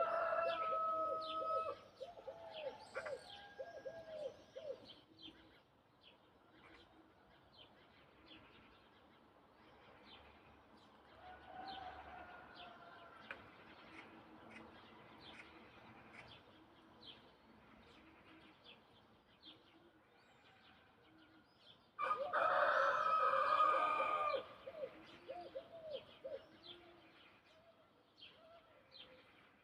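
Small birds chirping throughout, with low repeated calls of doves or fowl. A rooster crows loudly for about two seconds near the end, and a similar loud call comes at the very start.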